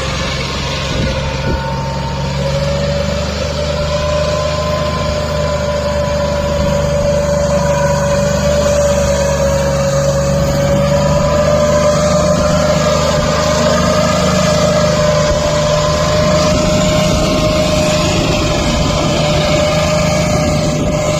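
Tractor diesel engine running steadily under load while pulling a trolley heavily loaded with sugar cane, with a steady high whine over the low engine note that rises slightly in pitch and grows a little louder.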